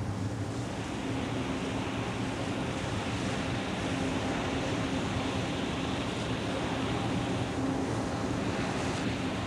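Warship under way: a steady low machinery hum with wind and sea wash over it.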